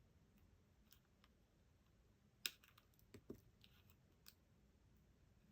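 A few sparse, isolated clicks over near silence, the loudest about two and a half seconds in.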